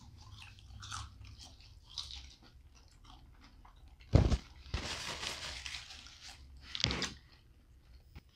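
Close-up chewing and biting mouth sounds of people eating battered fish sandwiches, quiet and wet with small clicks. There is a sharper, louder sound about four seconds in and another near seven seconds.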